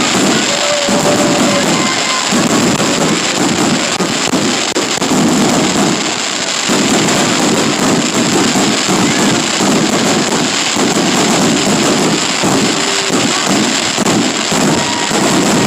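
Fireworks display: a dense, steady barrage of crackling and popping, with no single big boom standing out.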